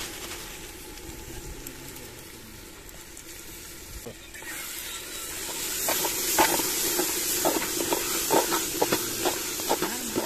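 Ginger-garlic paste sizzling on fried onions in hot mustard oil in a metal pot. The hiss swells loudly about four and a half seconds in as it is stirred, with quick scrapes and knocks of the spatula against the pot.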